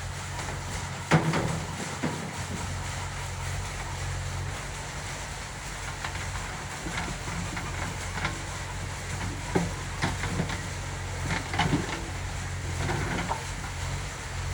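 Heavy diesel engine running steadily with a low hum, with scattered short knocks and clanks over it, one sharper knock about a second in and a cluster later on.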